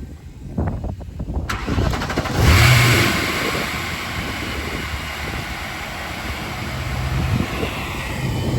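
Supercharged V8 in a BMW E30 cold starting: a short stretch of choppy cranking, then the engine catches about a second and a half in and flares loudly. It settles into a steady fast idle that climbs a little again near the end.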